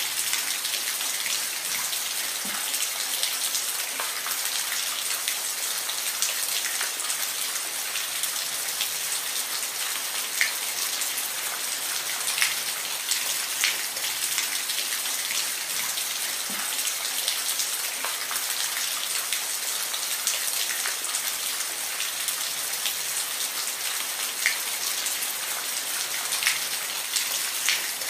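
Steady rain falling, a dense even hiss with individual drops ticking here and there.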